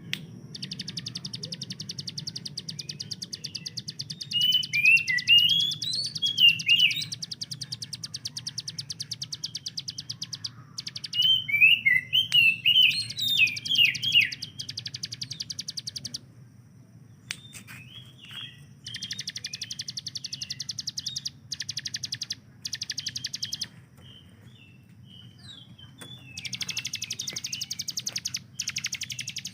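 Ciblek gunung (a prinia) singing its rapid-fire song: long, very fast even trills of several seconds each, broken by short sharp chirps and brief pauses. A steady low hum runs underneath.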